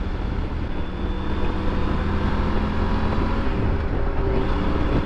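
Triumph Tiger 900 GT's three-cylinder engine running steadily at cruising speed, with wind and road noise, heard from the rider's position on the moving motorcycle.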